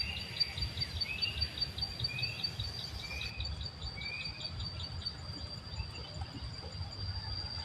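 Short bird chirps, about one a second for the first half, over a steady high-pitched insect trill and a low rumble.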